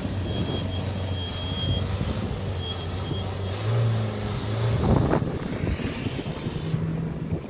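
Dacia Duster rally car's engine idling at the start line, revving up a little just before four seconds in, then accelerating away hard around five seconds in. It settles to a steadier, higher engine note near the end.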